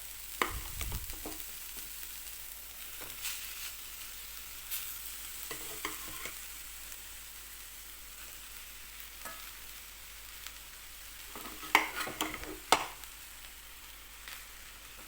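Spoon stirring and scraping cooked rice into grated Indian gooseberry frying in oil in a pan, over a steady light sizzle. Scattered clinks of the spoon on the pan, the two sharpest about twelve and thirteen seconds in.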